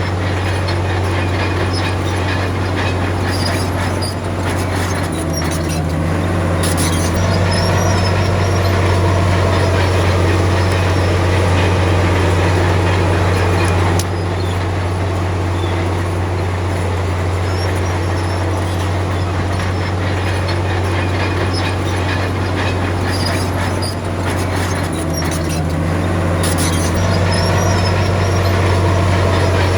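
Crawler bulldozer's diesel engine running steadily as a loud low drone, its note shifting twice as the load changes, with light clicking and clanking over it.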